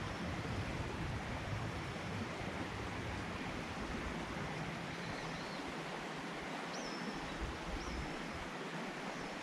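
Steady rushing of a flowing river, with two short high bird chirps about seven seconds in.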